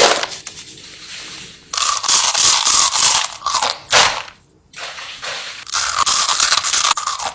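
Close-up crunching and chewing of food, in several loud crunchy stretches with short pauses between.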